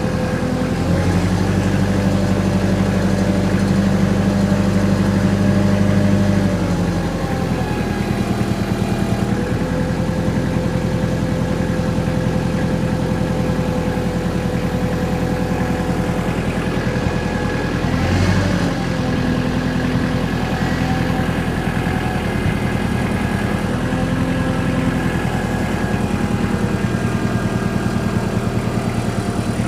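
An engine running steadily, a little louder and deeper for a few seconds near the start, then settling to an even note.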